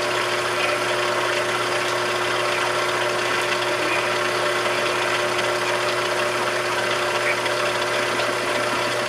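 A machine tool running steadily: an even mechanical hum with steady tones, unchanging throughout.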